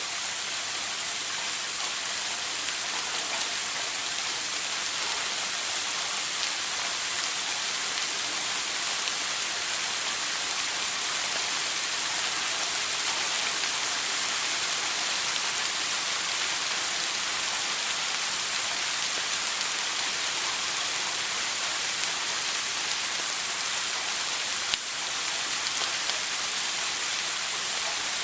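Shower water spraying steadily, a constant hiss of falling water. A single brief click shows a few seconds before the end.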